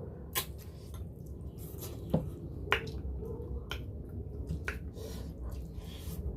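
Close-up eating sounds: a handful of sharp, wet lip smacks and mouth clicks while chewing spicy food.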